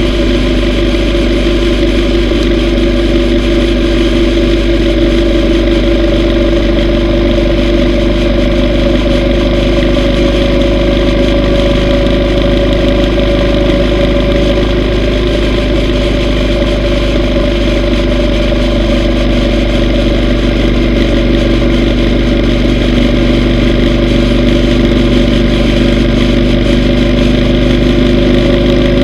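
Yamaha V Star 950's V-twin engine running at a steady pitch, as at a constant cruising speed, with no change in throttle.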